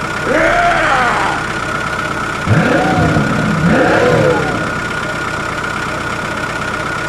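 Engine idling with a steady hum and a high whine, revved up and back down a few times: about half a second in, at about two and a half seconds, and at about four seconds.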